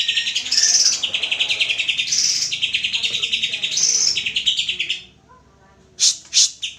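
Greater green leafbird (cucak ijo) singing: fast trilled phrases of about a second and a half each, repeated, with short higher notes between them. The song breaks off about five seconds in, then a few sharp high notes come near the end.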